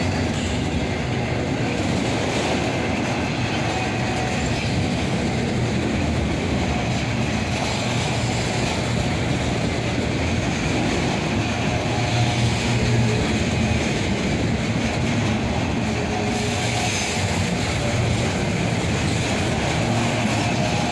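Cars of a mixed intermodal freight train rolling past, with steel wheels running over the rail joints in a steady, continuous rumble and clatter, and brief faint wheel squeals now and then.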